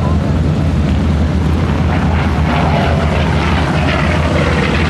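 F4U Corsair's Pratt & Whitney R-2800 eighteen-cylinder radial engine droning loudly as the plane flies its display, with a faint tone falling in pitch in the second half as it passes.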